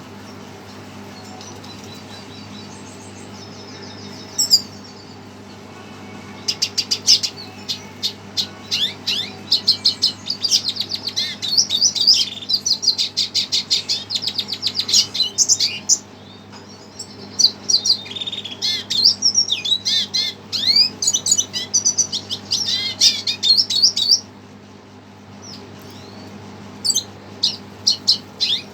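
Red siskin singing a long, fast twittering song of rapid, buzzy high notes, breaking off about three-quarters through and starting again near the end, over a steady low electrical hum.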